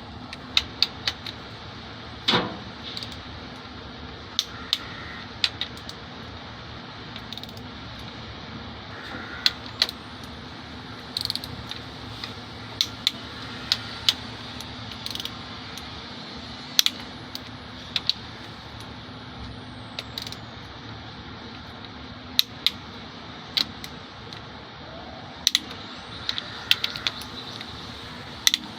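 Hand tools and metal engine parts clinking and tapping during work on a diesel engine's valve rockers: many short, sharp metallic clicks at irregular intervals over a steady background hum.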